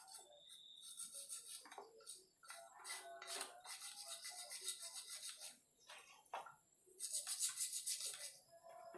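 A brush scrubbing Yamaha RX-King engine parts during cleaning, in three bouts of rapid back-and-forth strokes with short pauses and a few light knocks between them.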